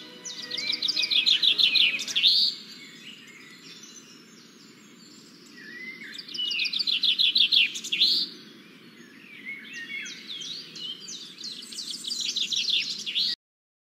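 Birds singing: two loud bursts of rapid trills made of quickly repeated notes, softer chirps between them, and more calls building near the end, over a low steady hiss. Music fades out in the first couple of seconds, and the sound cuts off abruptly just before the end.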